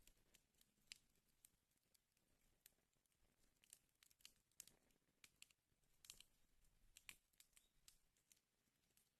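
Wood fire in a fireplace crackling faintly, with irregular sharp pops and snaps.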